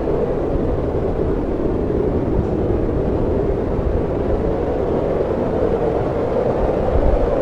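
Snowstorm wind blowing steadily, a low rushing noise with an uneven rumble underneath, swelling slightly near the end.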